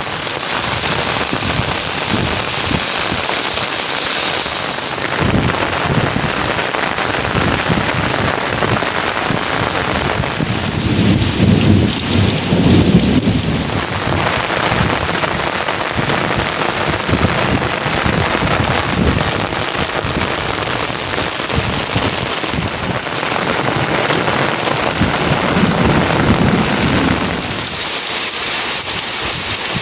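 Heavy rain falling steadily, with two low rolls of thunder, one about ten seconds in and another near the end.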